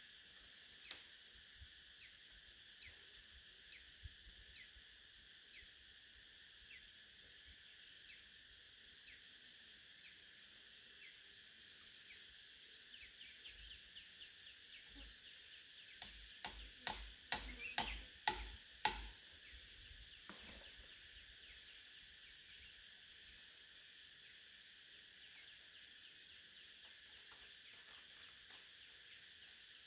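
Faint, steady high-pitched insect drone, with a quick run of sharp clicks and knocks just past the middle.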